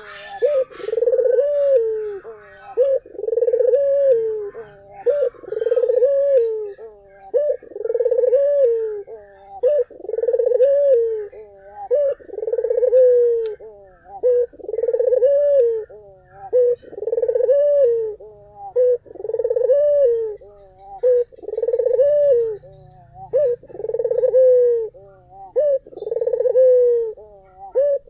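Puter dove (domestic collared dove) cooing over and over in a steady rhythm, about three coos every four seconds, each one low and rising then falling in pitch.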